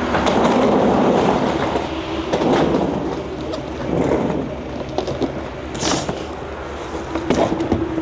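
Steady rumble of a moving vehicle heard from inside, with a low hum, scattered clicks and rattles, and a brief hiss about six seconds in.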